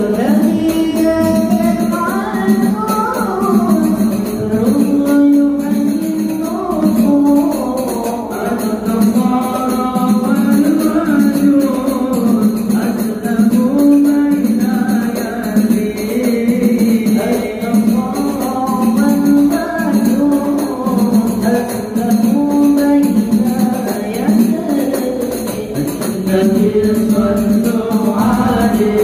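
Sholawat, an Islamic devotional song: a melodic voice singing a gliding Arabic line over steady jingling hand percussion.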